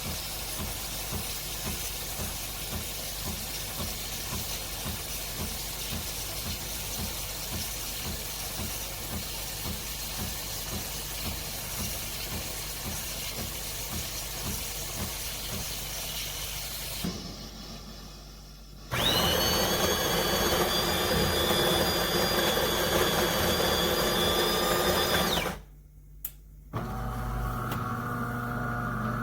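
De'Longhi Dinamica Plus espresso machine making a milk drink: a steady hiss of steam frothing milk in the automatic frother, with the pump pulsing fast underneath, stops after about 17 seconds. A couple of seconds later a loud motor whine, most likely the built-in bean grinder, runs for about six seconds and cuts off sharply. A lower machine hum starts near the end.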